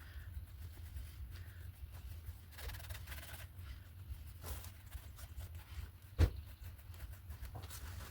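Faint scratchy handling of art tools on paper at a work table, with a sharp knock about six seconds in, over a low steady hum.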